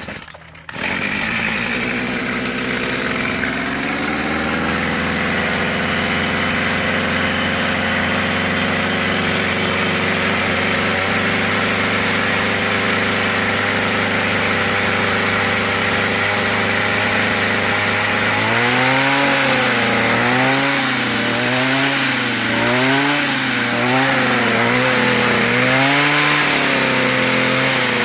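Stihl FS55 string trimmer's two-stroke engine catching about a second in, running on its newly replaced carburetor. Its pitch climbs and settles within a few seconds and holds steady. In the last third it is revved up and down several times before steadying again.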